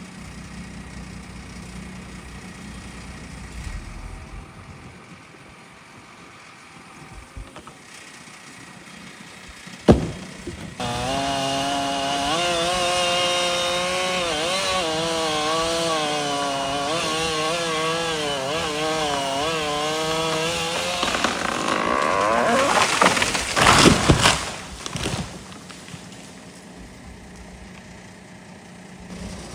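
Stihl MS 460 two-stroke chainsaw with a 28-inch bar cutting wood: after a sharp knock about ten seconds in, the saw runs under load for roughly ten seconds with its pitch wavering as it cuts, then comes a few seconds of louder, rougher noise with several heavy cracks and thuds before it drops away.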